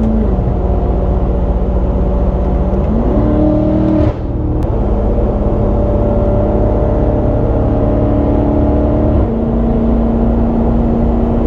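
BMW M5 Competition's twin-turbo 4.4-litre V8 running while driving, its pitch stepping up and down several times with the throttle and gears. There is a brief drop in level about four seconds in.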